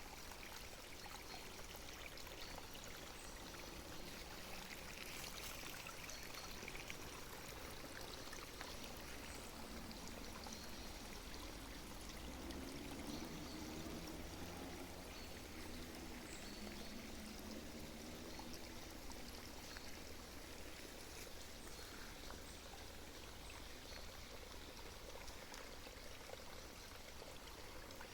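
A small stream of water babbling and trickling steadily.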